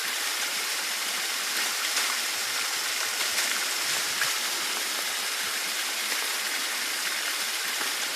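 Steady rush of water from a stream running in the monsoon rains.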